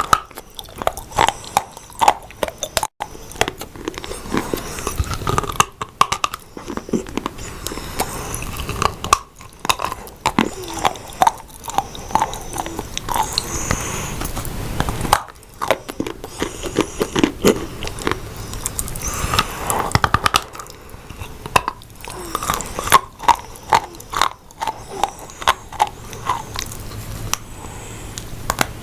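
Close-miked biting and chewing of dry edible clay: repeated crisp crunches and crumbling bites, one after another.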